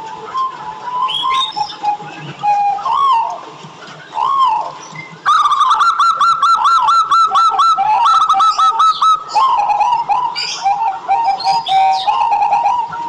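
Zebra dove (perkutut) cooing: phrases of rising-and-falling notes, then a louder fast run of rapid notes from about five to nine seconds in.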